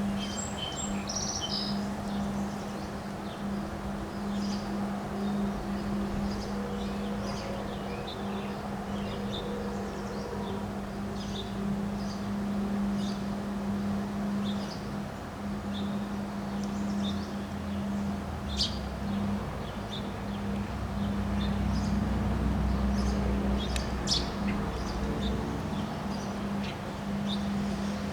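Birds chirping in short, scattered calls over wind noise and a steady low hum. About two-thirds of the way through, a gust brings a louder low rumble that fades again near the end.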